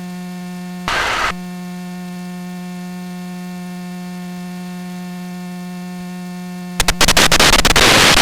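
Steady electrical hum on an aircraft headset intercom feed. A short burst of noise comes about a second in, and a loud burst of static or hiss starts near the end.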